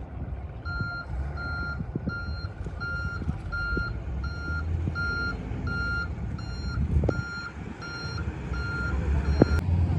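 Truck reversing alarm beeping at about two beeps a second, stopping near the end, over a low diesel engine rumble and a few scattered knocks.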